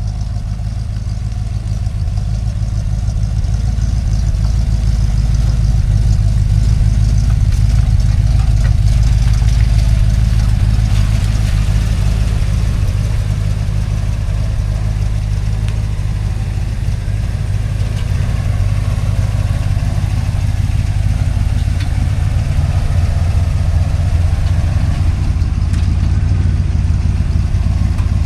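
1970 Chevy C10 pickup's engine running steadily at idle, a little louder after the first few seconds.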